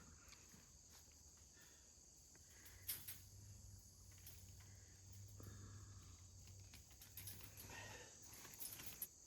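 Near silence, with a steady high chirring of crickets throughout. A single sharp click comes about three seconds in, and a few faint knocks or rustles come near the end.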